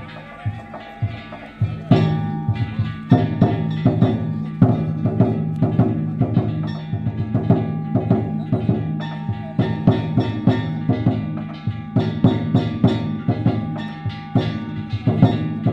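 Danjiri festival percussion (narimono): a large taiko drum beaten in a fast, busy rhythm with small hand gongs (kane) clanging over it.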